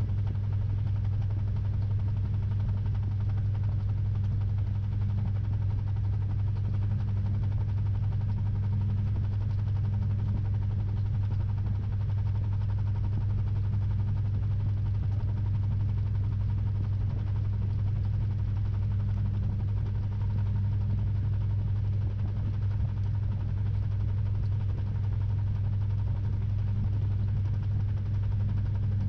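Samsung 6.5 kg top-load washing machine running, heard from inside its drum: a steady low hum with an even mechanical noise that does not change.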